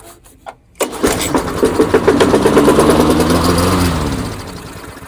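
Tecumseh single-cylinder lawnmower engine pull-started on gasoline poured down the carburetor: it catches about a second in, runs for roughly three seconds, then slows and dies out. The fuel is not being drawn from the tank, which the owner suspects is a faulty carburetor.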